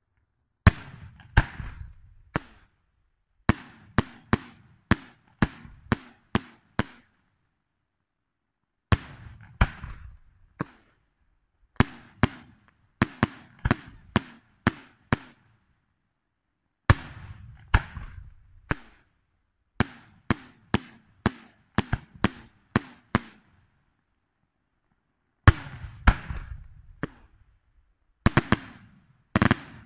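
Aerial firework shells bursting in a professional display: sharp bangs in quick clusters of several reports, each cluster lasting a second or three, with short silent gaps between clusters. The loudest burst comes a little over three-quarters of the way through.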